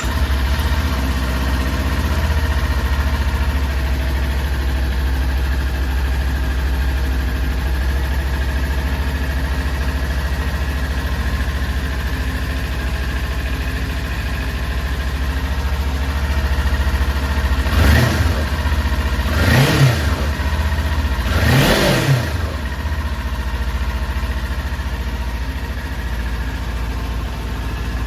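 2022 Kawasaki Ninja 400's parallel-twin engine idling just after start-up, then blipped three times in quick succession about two-thirds of the way through, each rev rising and falling back, before settling to a steady idle again.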